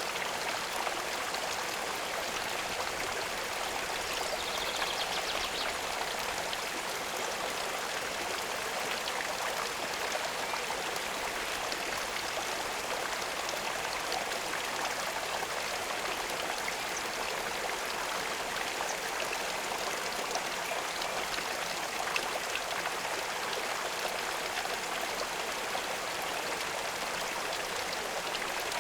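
Steady running water, a constant rush with no pauses, and a faint high twitter about five seconds in.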